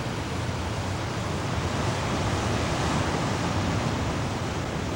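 Steady rushing of surf and wind, swelling a little towards the middle.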